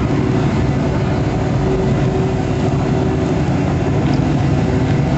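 Turbocharged 383 Windsor stroker V8 in a 1995 Ford F-150 Lightning running steadily at an unchanging pitch.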